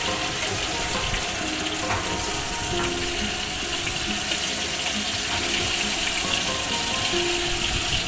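Fish frying in hot oil: a steady sizzle, with instrumental background music playing a melody over it.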